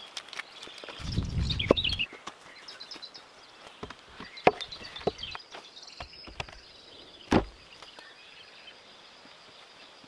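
Scattered sharp knocks and a low thud from hand work with wood and tools, with faint bird chirps and a thin high steady tone behind them.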